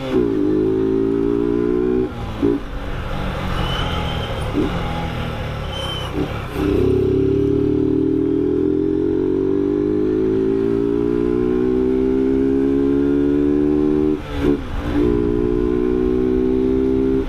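Honda CB motorcycle engine pulling under acceleration, its pitch climbing steadily through each gear. It breaks off briefly at the gear changes about two seconds in and again near the end. Between those, it eases off for a few seconds before pulling hard again.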